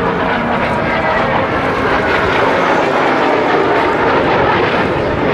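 Kawasaki T-4 jet trainers of the Blue Impulse display team flying past, their twin turbofan engines making a loud, steady jet noise.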